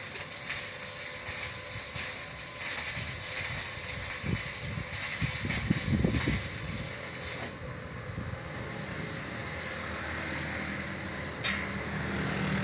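MIG welder arc crackling steadily, the high end of the sizzle dropping away about two-thirds of the way through.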